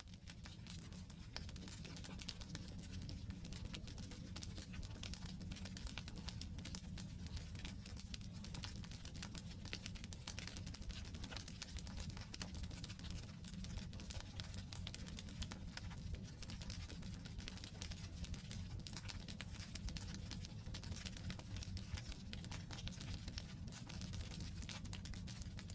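Campfire of burning firewood logs crackling: a dense, steady run of small pops and crackles over a low steady rumble from the fire. It fades in over the first second.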